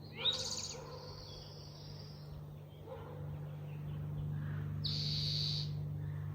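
Forest birds calling: a high call that sweeps up and holds for about two seconds at the start, and a short high buzzy trill about five seconds in, over a steady low hum.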